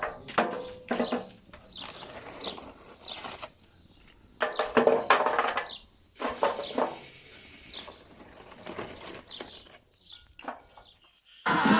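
Small birds chirping on and off in short, high falling notes, mixed with irregular louder sounds. Music starts suddenly at the very end.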